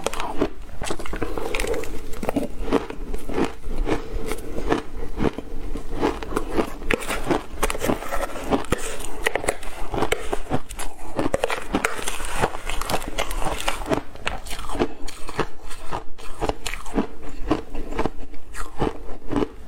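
Ice being bitten and chewed up close, a dense run of rapid, irregular crunches and cracks.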